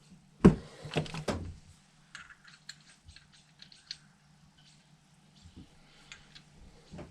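Small metal carburetor parts handled on a workbench: a sharp knock, then two more within the first second and a half, followed by light scattered clicking.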